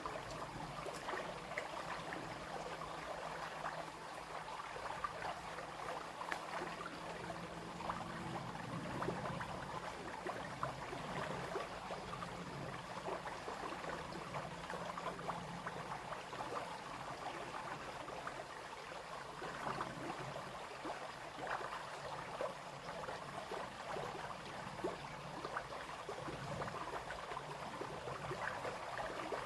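Small brook flowing and babbling steadily over stones, with many little splashes and trickles.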